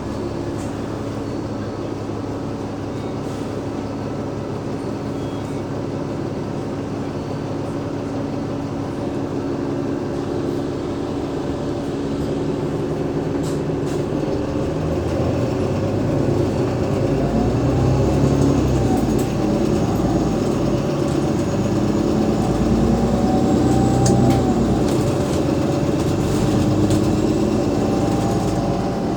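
The bus's Cummins ISL 8.9-litre diesel engine and ZF Ecolife automatic gearbox, heard from inside an Alexander Dennis Enviro500 MMC double-decker bus. It runs steadily at first, then about halfway through it grows louder, with more rumble and rising whining tones.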